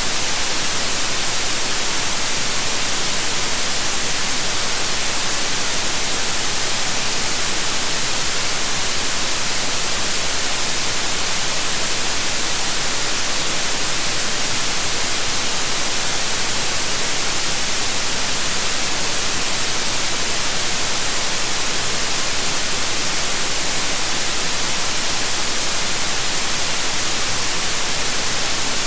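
Synthetic white noise: a steady, even hiss with no changes.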